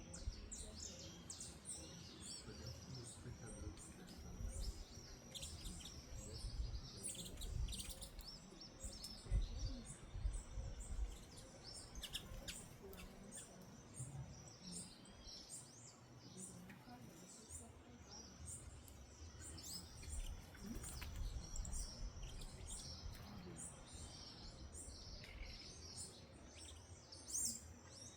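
A flock of small birds chirping and calling together, a dense, continuous chorus of short high chirps with a low rumble underneath.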